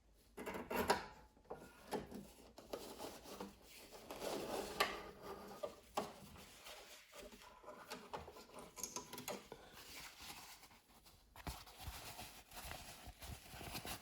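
Irregular rubbing, scratching and clicking of hands handling fabric and parts at a sewing machine.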